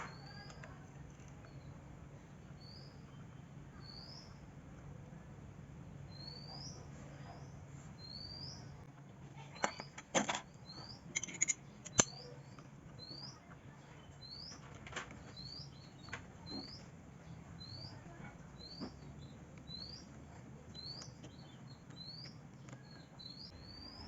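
A small bird repeating a short, high, rising chirp about once a second. Near the middle come a few sharp knocks and clicks, the loudest sounds, and a low hum fades out about halfway.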